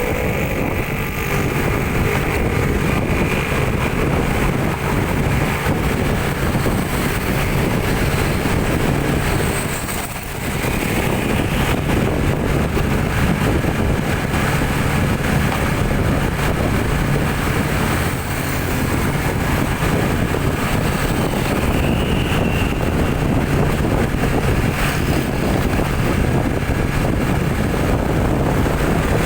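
Vehicle engine and road noise while driving, a steady low hum under dense rushing noise that dips briefly about ten seconds in.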